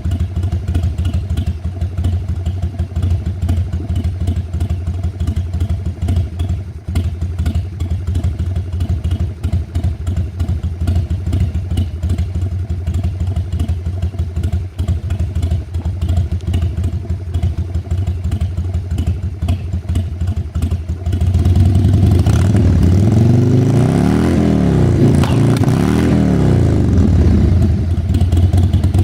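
Harley-Davidson Sportster V-twin running through an aftermarket exhaust: a steady, pulsing idle, then, about two-thirds of the way through, the throttle is opened and the engine revs up and down twice before settling back toward idle.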